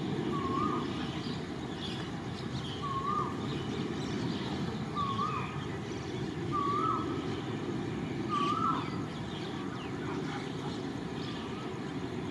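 Steady low rumble of a passing train, with a bird calling a short wavering note five times, about every one and a half to two seconds, and faint higher chirps behind it.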